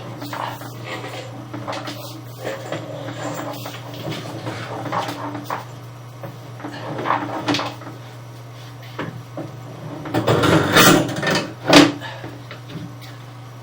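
Irregular scraping and knocking over a steady low hum. It grows loudest about ten seconds in and ends with one sharp knock.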